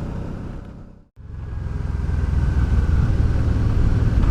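Honda Deauville V-twin motorcycle riding along, engine running under a steady rumble of wind and road noise. The sound fades to silence about a second in, then comes back and grows louder.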